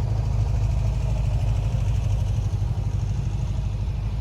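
A car engine idling close by: a steady low rumble with a fast, even pulse.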